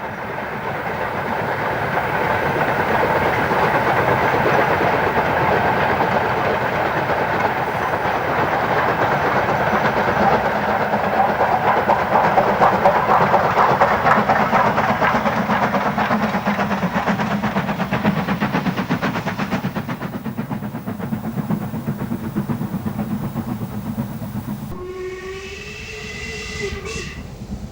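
LMS Stanier Class 5 'Black Five' 4-6-0 steam locomotive working a train, with rapid exhaust beats and rolling-stock noise that swell and then fade as it passes. Near the end a steam whistle sounds for about two seconds.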